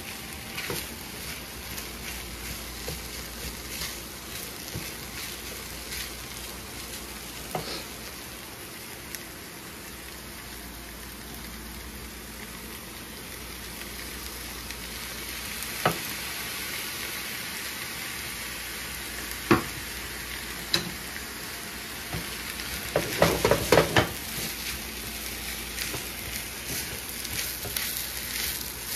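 Stir fry sizzling in a hot pan as it is stirred, with a few sharp knocks of a utensil against the pan and a quick run of knocks about 23 seconds in.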